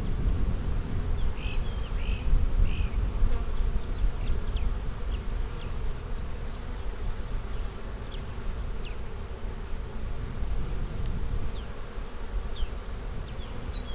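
Honey bees from an opened hive buzzing steadily, a swarm of wingbeats over a low rumble.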